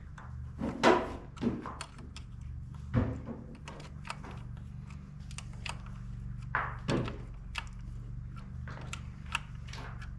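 Scattered clicks and clinks of hand tools working on metal parts, with louder knocks about a second in, three seconds in and seven seconds in, over a steady low hum.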